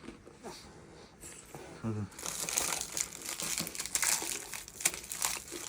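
Biscuit packet wrapper crinkling as it is handled, starting about two seconds in as a dense run of rapid crackles.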